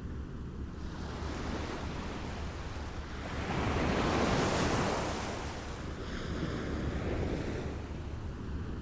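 Small waves lapping on a shore: one wave washes in and is loudest about four seconds in, with a smaller one following, over a steady low rumble.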